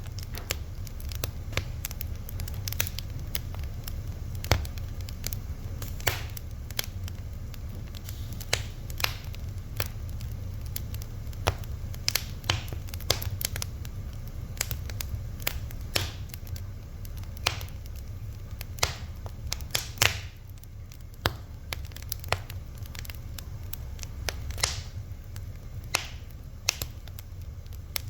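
Fire crackling: irregular sharp pops and snaps, a few much louder than the rest, over a low steady rumble.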